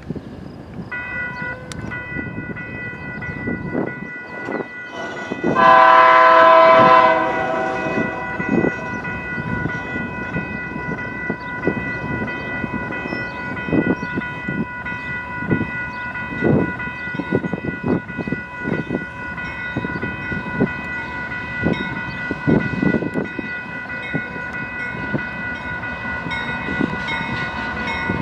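A freight train passing, with the steady clatter of wheels over rail joints and a short blast of the locomotive's air horn about six seconds in. A steady high-pitched ringing tone runs underneath.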